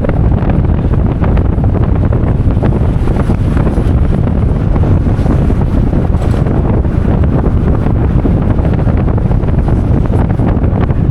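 Steady, loud rumble of wind buffeting the microphone.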